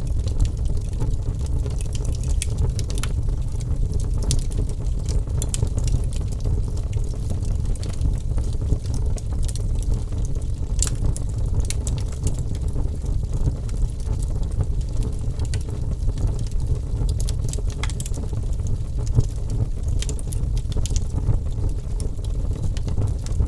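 Wood fire crackling, with frequent sharp pops and snaps scattered over a steady low rumble of burning flames.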